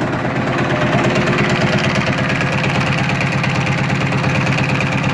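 AVZ-180 rotary plunger vacuum pump running steadily on a test bench after a rebuild, with a fast, even pulsing beat.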